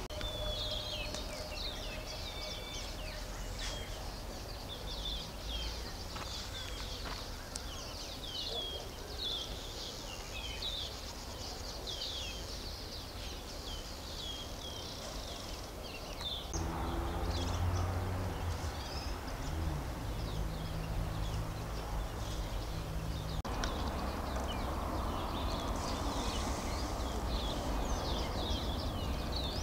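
Birds chirping and twittering in many quick, short, high notes throughout. About halfway a low steady hum comes in for around seven seconds, and a steady rushing noise fills the last few seconds.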